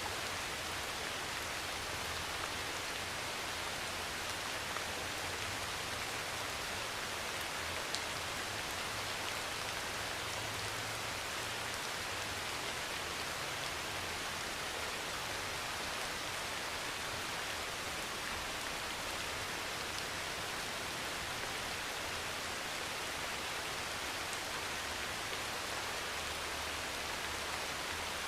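Heavy rain pouring steadily onto a metal roof, with a low rumble swelling and fading underneath and a single sharp tick about eight seconds in.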